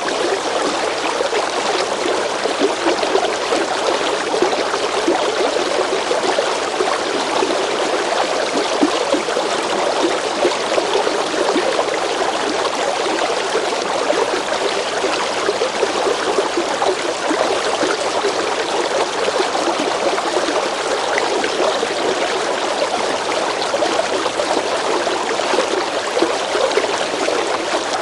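River water running steadily over stones, a continuous rushing and babbling with fine splashing detail.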